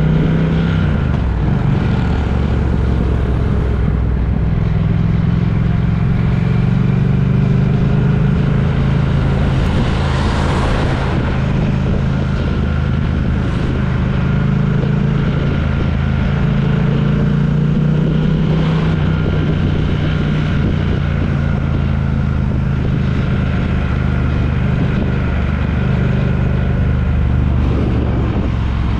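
A road vehicle's engine and road noise, running steadily on the move, with the engine hum drifting slowly up and down in pitch. There are a few brief whooshes, the biggest about ten seconds in.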